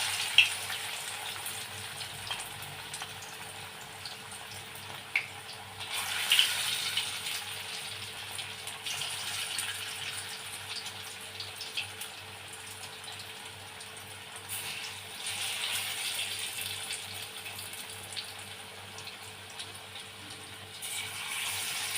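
Chicken pakora pieces frying in medium-hot oil in a kadai: a steady sizzle that swells and fades several times, with a few light clicks.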